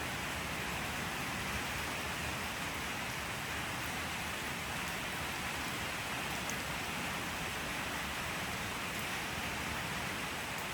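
Steady rain falling, an even hiss that holds level without let-up.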